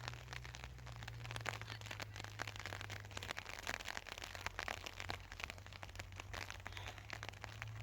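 Rain pattering on a tent, a dense, continuous run of small ticks, with a low steady hum underneath.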